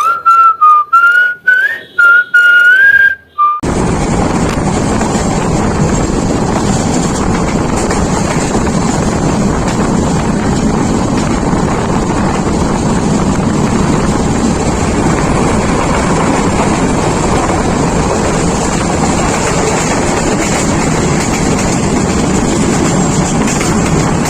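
Someone whistling a tune for about three seconds, then an abrupt switch to the steady rumble and rush of a moving passenger train, with wind on the microphone.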